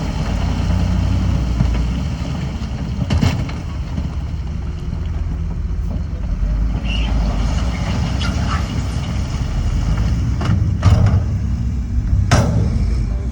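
Heavy diesel earthmoving machinery running steadily, with a deep engine rumble and several sharp knocks, one about three seconds in and a cluster near the end.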